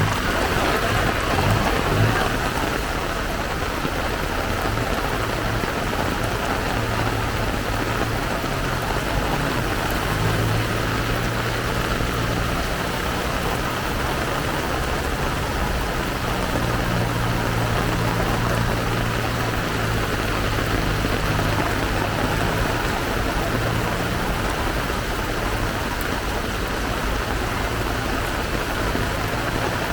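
Heavy rain pouring steadily. A low steady hum sits under it through the middle stretch.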